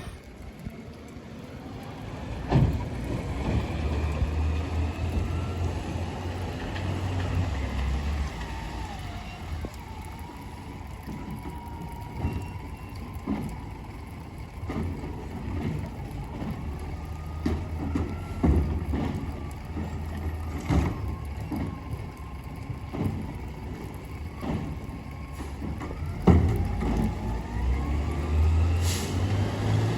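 Garbage truck at work: its engine runs and revs up and down, with a whining tone that rises and falls, and several sharp bangs along the way.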